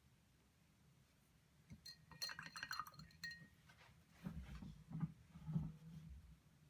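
A quick run of light glass clinks with a brief ring, followed about a second later by a few dull knocks.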